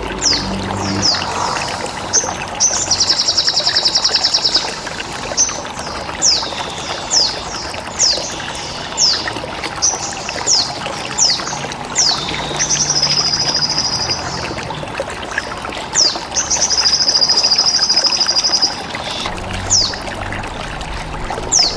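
Birdsong training recording: a run of short, high chirps that sweep downward, broken three times by buzzy trills about two seconds long. A steady trickle of running water plays beneath throughout. The track is a sogon masteran mixed with ciblek (bar-winged prinia) calls and bren cicada buzzing.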